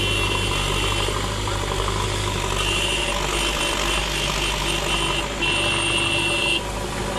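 Heavy diesel machinery engine running steadily at loading work. An intermittent high-pitched whine or beep comes and goes several times from a little way in.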